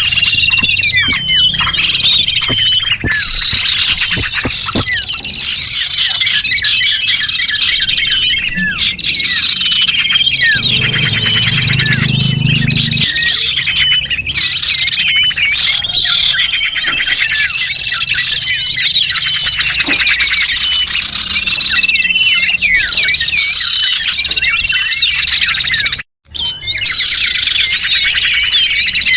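A dense chorus of small songbirds chirping and twittering without pause, with many rapid high calls and trills overlapping: a bird-lure recording for attracting small birds. The sound cuts out completely for a split second a few seconds before the end.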